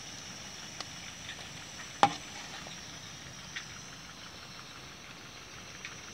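Pakoras deep-frying in hot ghee in an aluminium pot, a steady sizzle, with a few sharp clinks of a metal slotted spoon against the pot, the loudest about two seconds in.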